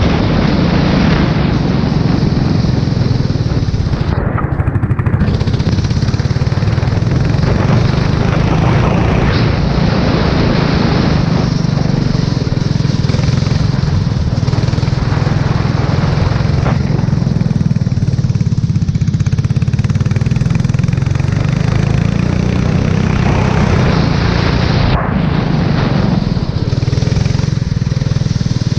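Formula 4 race car engine running hard at speed on a wet track, with a dense, steady rush of wind and spray noise over it and brief dips in the note, as at gear changes or lifts, a few seconds in and near the end.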